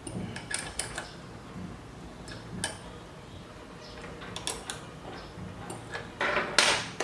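Light clicks and small metallic knocks of metal parts and hand tools being handled during mechanical assembly, with a louder rasping scrape about six seconds in.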